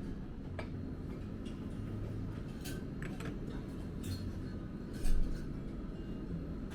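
Tableware clinking now and then as dishes are handled at a dinner table, over a low steady hum, with one louder thump about five seconds in.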